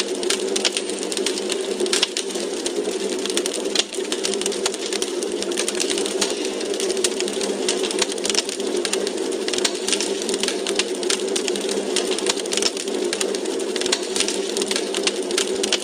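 Wood fire crackling in a fireplace: many small, irregular pops and snaps over a steady low rush.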